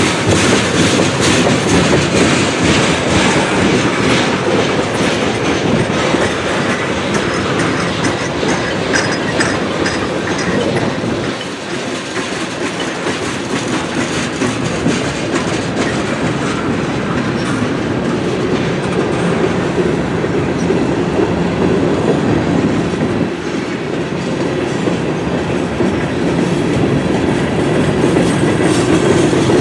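A manifest freight train rolling past at speed, its wheels clacking over rail joints in a continuous loud rumble. The rumble dips briefly twice.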